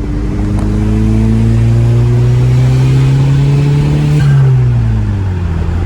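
Car engine accelerating hard under load, its pitch rising steadily for about four seconds, then dropping away as the throttle comes off.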